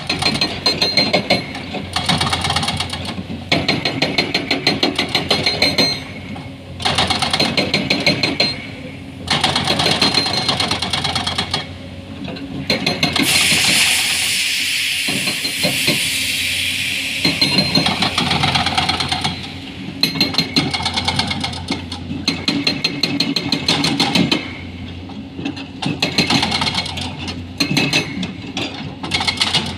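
An excavator-mounted hydraulic breaker hammering rock in repeated bursts of rapid blows, each burst lasting a couple of seconds with short pauses between. In the middle there is a steadier stretch of rushing machine noise without the hammering.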